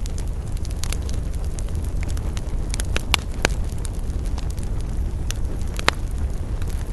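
Campfire burning: a steady low rumble of the flames under scattered sharp crackles and pops of burning wood, with a few louder pops around the middle and again near the end.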